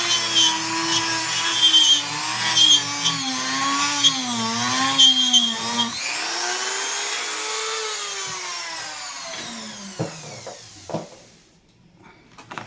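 Electric drill running into wood, its motor pitch wavering under load with scraping. About six seconds in it speeds up, then winds down to a stop, followed by a couple of knocks.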